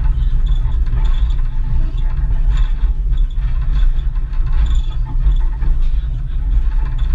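Ride noise from an open-sided passenger car rolling along the rails: a steady low rumble with wind on the microphone and faint, irregular clicks from the wheels and car.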